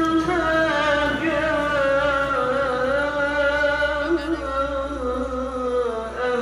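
A man reciting the Quran in the melodic tilawah style, drawing out one long phrase with a wavering, ornamented pitch. A short break comes near the end before the next phrase begins.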